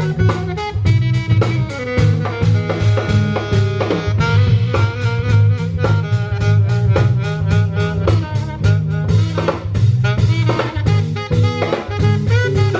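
Live band playing jazz: a drum kit keeps a busy, even beat over a steady bass line while a melody moves on top.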